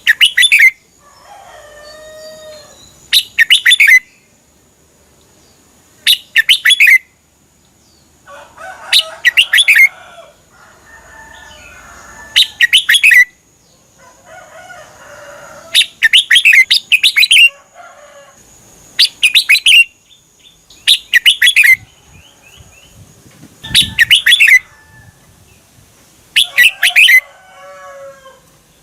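Red-whiskered bulbul singing: short, loud, bright song phrases repeated about every three seconds. Softer, lower warbling calls fill the gaps between them.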